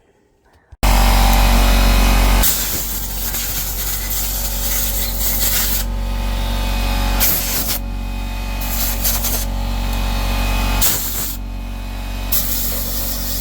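Compressed air blasting from an air-compressor blow gun through an oiled sewing machine's works to drive the fresh oil through it, over the steady hum of the compressor. The hiss starts suddenly about a second in, then swells and eases in bursts.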